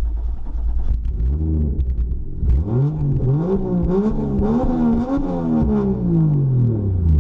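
Drift car's engine idling, then revved in a series of blips, the revs rising and falling several times before a long slow drop near the end.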